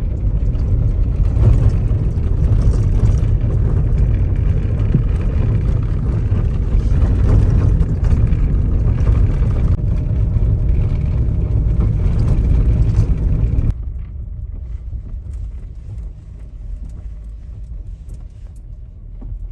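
Jeep Wrangler driving: engine and tyre rumble with a broad rushing noise, dropping suddenly to a quieter low rumble about 14 seconds in.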